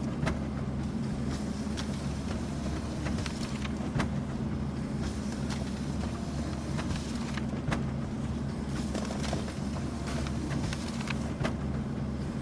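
Office printer running steadily with a low hum, with scattered light clicks from its paper-feed mechanism.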